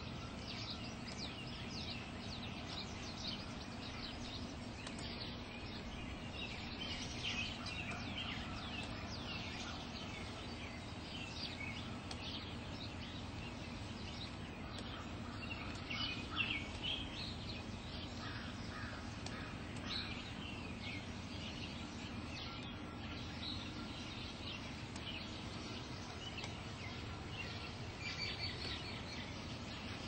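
Many birds chirping and singing in the trees: a dense run of short, quick calls, some overlapping, over a steady low background rumble.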